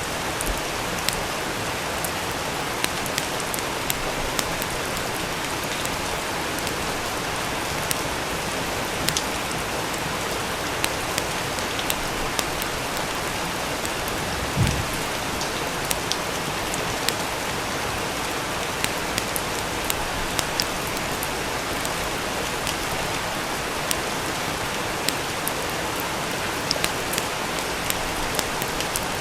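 Steady rain with scattered sharp crackles and pops from a wood fire, and one dull thump about halfway through.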